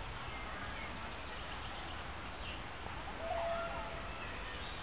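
Outdoor park ambience: a steady hiss of background noise with a few short bird calls, the loudest a brief held note a little after three seconds in.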